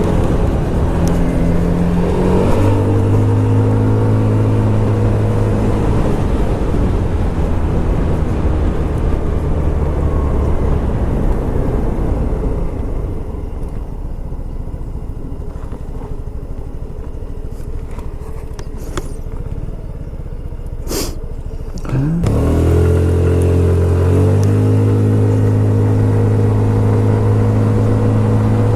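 Scomadi TT125 scooter's 125 cc four-stroke engine running under way, with road and wind noise. The engine note steps up about two seconds in and dies away about eleven seconds in as the throttle is rolled off. After a short sharp click it picks up again with a rising pitch about twenty-two seconds in and holds steady.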